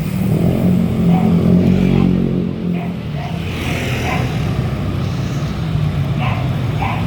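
Motorbike engine running steadily, with a few short high-pitched chirps over it.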